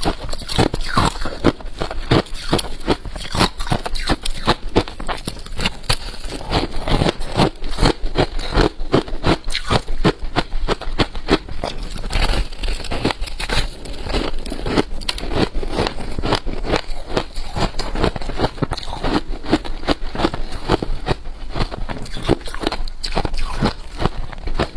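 Freezer frost being chewed close to the microphone: dense, continuous crunching and crackling, many small crunches a second with no pause.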